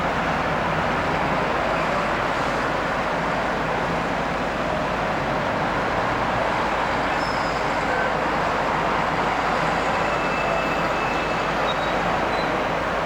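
Steady road traffic noise: motor vehicle engines and tyres running continuously, with no single event standing out.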